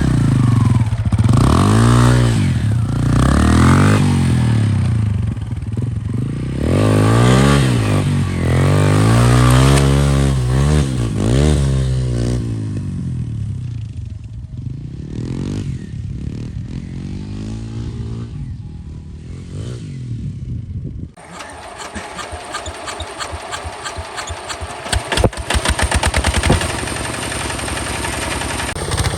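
Hinota HG Gold 155 DI tractor's diesel engine running, its pitch swinging up and down repeatedly as the revs rise and fall, then easing off. About two-thirds of the way through the sound changes suddenly to a steadier, faster engine clatter, with a brief louder rattle near the end.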